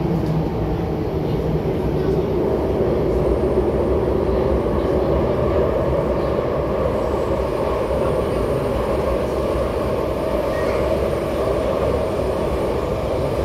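Interior running noise of an MTR Hyundai Rotem R-Train electric multiple unit travelling at steady speed through a tunnel. A continuous rumble of wheels and air holds steady in the car.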